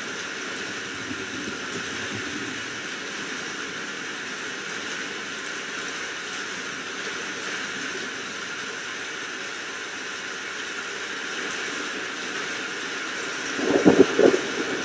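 Steady hiss of heavy rain. Near the end a sudden crackling clap of thunder rises above it.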